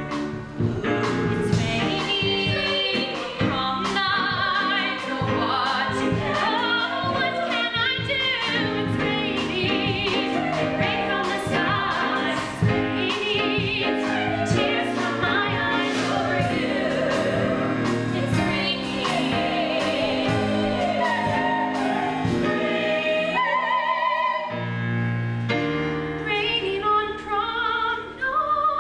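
Musical-theatre cast singing a song with live band accompaniment. The music breaks off briefly about three-quarters of the way through, then resumes.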